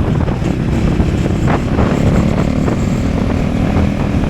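Motorcycle engine running steadily while under way, with wind buffeting the microphone.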